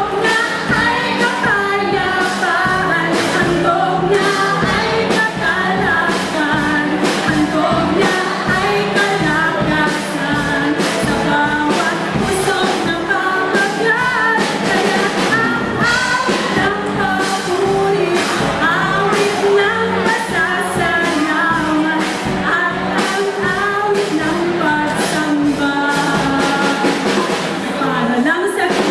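Live band playing a pop-rock song with a singer, the drum kit keeping a steady beat throughout.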